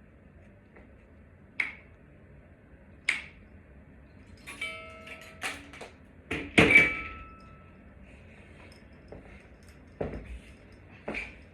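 Scattered clicks and knocks from small hardware and tools being handled. About six and a half seconds in there is a louder knock with a brief metallic ring.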